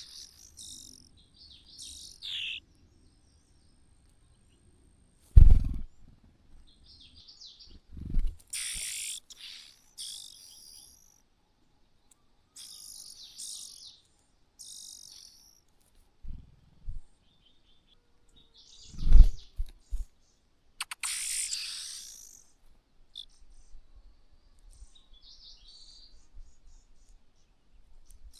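Birds chirping in short, scattered bursts of high calls, with quiet gaps between. Three short low thumps, about five, eight and nineteen seconds in, are louder than the chirping.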